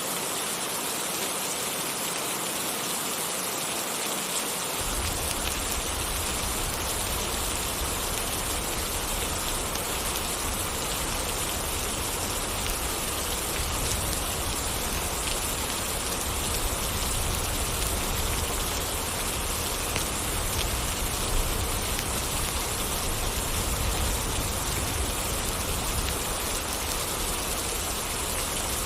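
Steady rain falling and pattering on surfaces. A low rumble joins in suddenly about five seconds in and continues under the rain.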